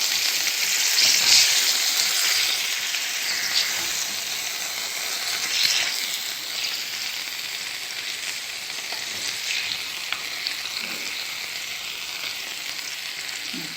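Chicken pieces sizzling in hot olive oil in a tagine, a steady frying hiss, with light scraping and clicks as they are turned.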